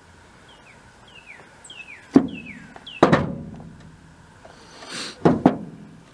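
Heavy metal pump parts being handled, giving four ringing metal clanks: one about two seconds in, one a second later, and a close pair near the end, with a brief scrape just before the pair. A bird repeats a short falling whistle five times during the first three seconds.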